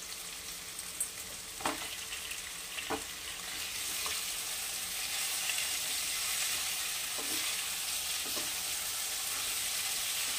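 Vegetables sizzling in hot oil in a kadai while a wooden spatula stirs them, with a few short knocks of the spatula against the pan. The sizzle grows louder about four seconds in as the stirring picks up.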